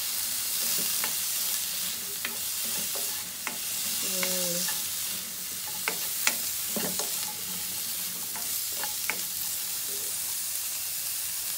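Green beans and garlic sizzling in hot oil in a wok, stirred with a spatula that scrapes and taps against the pan now and then.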